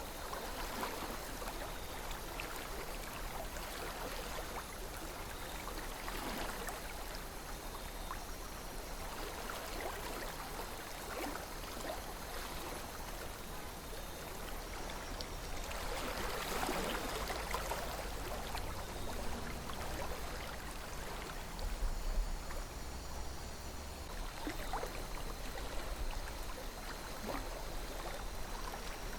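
River water flowing steadily over stones, with small splashes and gurgles throughout. A brief low rumble comes about three quarters of the way through.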